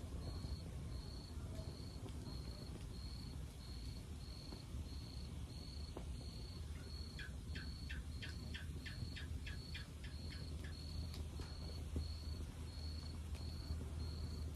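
A cricket chirping in steady, evenly spaced high pulses over the low rumble of a log fire with a few faint pops. About halfway through, a quick run of about a dozen short, high falling notes comes in, about three a second, then stops.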